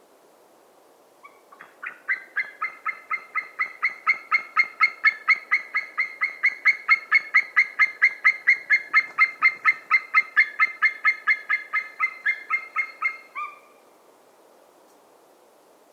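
White-tailed eagle calling: a long, even run of short, repeated pitched notes, about four a second. They start about a second in, build in loudness and then stop abruptly near the end.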